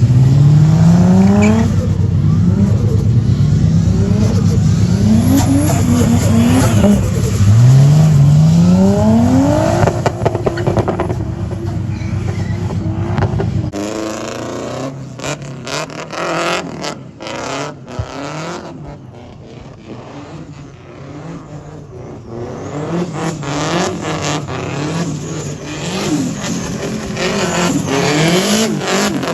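Car engine revving hard in repeated rising pulls during drifting, with tyre squeal. About fourteen seconds in the sound changes suddenly, losing its deep rumble and turning into choppier bursts, with more revving near the end.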